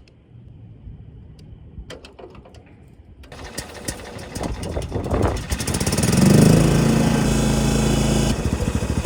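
A few light clicks, then a small tractor engine cranking over on a jump starter, catching about six seconds in, revving briefly and settling into a steady run.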